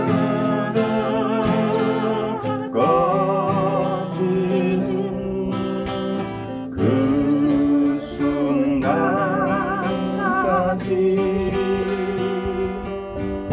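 A song: a voice singing with vibrato over strummed acoustic guitar.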